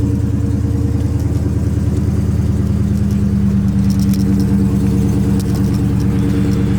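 Dodge Scat Pack Widebody's 6.4-litre HEMI V8 running steadily at an even, unchanging pitch, with a deep, loud exhaust note.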